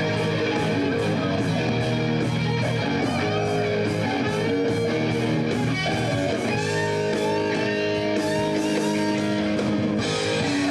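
Rock band playing live with guitar to the fore: held chords, and lead notes that bend in pitch in the second half.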